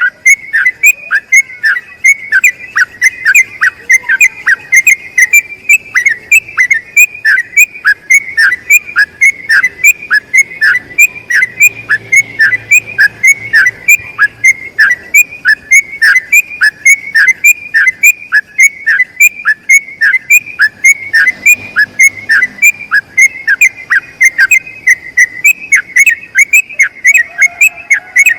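Yellow-vented bulbul (trucukan) singing a long, unbroken run of loud, clear whistled notes, each sliding down in pitch, about three a second: the rapid 'ropel' song used as a tutor recording for training other bulbuls.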